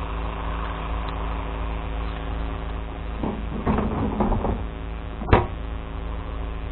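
Truck engine running steadily, with some irregular clattering about three to four and a half seconds in and one sharp knock a little after five seconds in.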